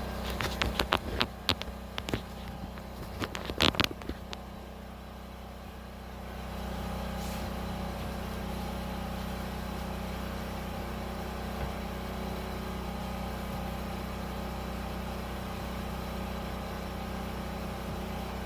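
A quick run of sharp knocks and clatter in the first four seconds, then a steady low mechanical hum that sets in about six seconds in and holds.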